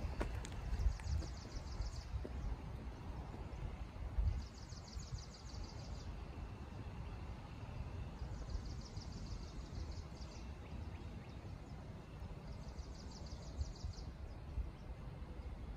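A songbird singing a rapid, even trill of high notes, four times, each trill lasting a second or two and coming about every four seconds, over a low, even background rumble.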